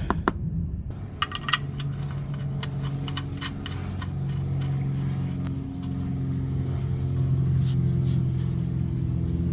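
A steady low engine-like hum, growing slightly louder, with scattered light metallic clinks of hand tools over the first few seconds and again near the end, as the oil drain plug is refitted.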